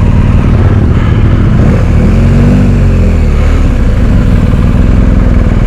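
Motorcycle engine running under way with wind and road noise, its note rising and then falling back about two to three seconds in.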